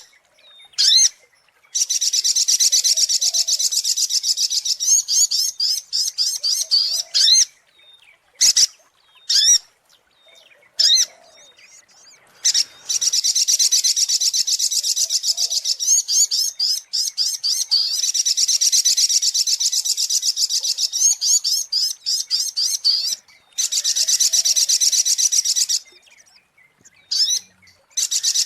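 Sogok ontong (spiderhunter) calling: long, fast, high-pitched chattering trills lasting several seconds each, the longest about ten seconds in the middle, separated by short gaps with single sharp calls. A bird-lure recording.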